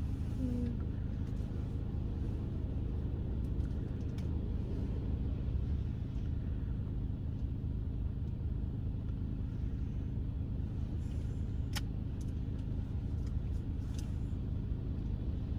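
Automatic car wash machine working over the car, heard from inside the cabin: a steady low rumble with a steady hum, and a couple of brief clicks late on.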